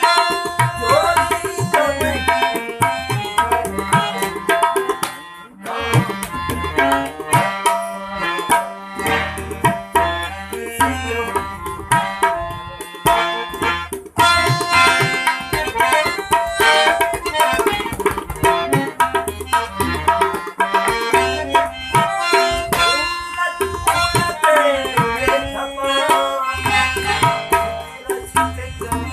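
Instrumental South Asian music: tabla drumming with rapid strikes and deep bass strokes under a melodic instrument, with no singing, and a brief break about five seconds in.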